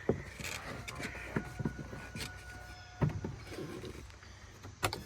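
A few scattered knocks and clicks of someone climbing into and handling a UTV, with a faint steady thin tone for about a second and a half in the middle; the engine is not yet running.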